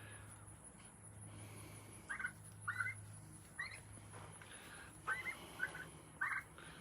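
Red Bourbon turkeys calling: a string of about six short, faint calls, starting about two seconds in and running on to near the end.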